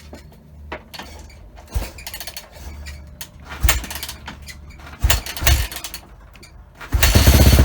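A few knocks and clatters of handling the motocross bike, then about seven seconds in its engine starts and runs loud and steady: the first start after winter storage.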